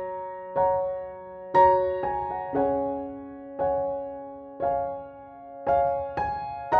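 Slow, gentle background piano music, with a note or chord struck about once a second and left to ring and fade.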